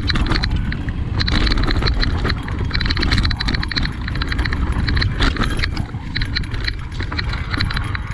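Cube Reaction Hybrid EX 625 electric mountain bike rattling over a rough dirt trail: tyres crunching on rock and dirt, with a dense run of clicks and clatters from the bike under a steady low rumble.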